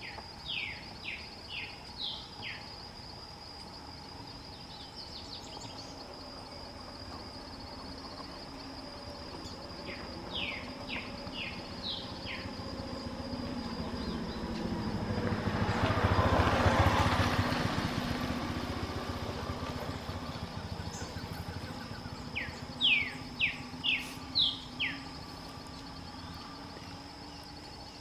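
A songbird known as copetero de madera singing three times, each song a quick run of about six sharp notes slurring downward. A vehicle passes about halfway through, and a steady high-pitched tone runs underneath.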